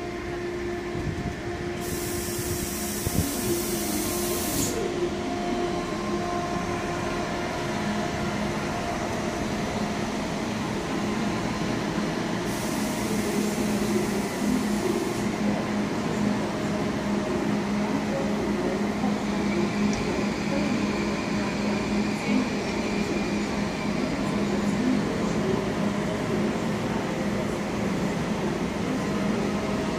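Deutsche Bahn ICE high-speed train rolling slowly along a station platform, with a steady electric hum that grows stronger in the second half. Two bursts of high hiss come through, one about two seconds in and another around twelve seconds in.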